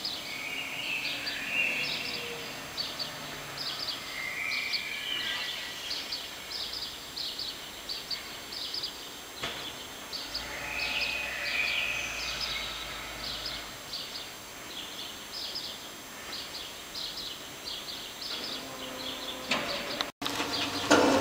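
Birds chirping over a background of outdoor noise: many short, high chirps a few times a second, with a few fuller calls now and then. The sound cuts off sharply near the end.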